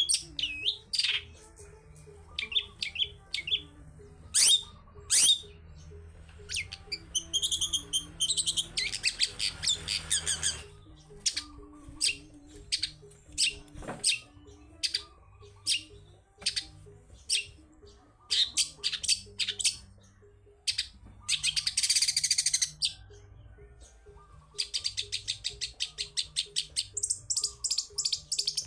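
Long-tailed shrike (cendet) singing in full voice: a varied string of sharp, high whistled notes broken by harsh, scratchy calls about 9 and 22 seconds in, and a fast run of repeated chattering notes near the end.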